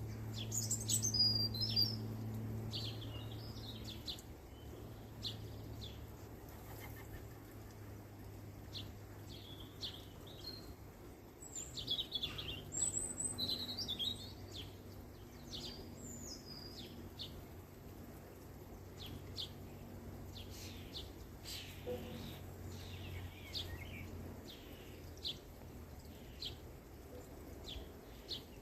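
Songbirds chirping and singing in short, scattered phrases, busiest near the start and again about halfway through, over a low steady hum.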